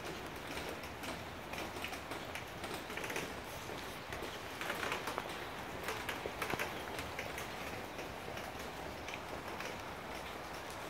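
Rain falling on wet asphalt and puddles: a steady hiss dotted with many sharp drop clicks, thickest and loudest for a couple of seconds around the middle.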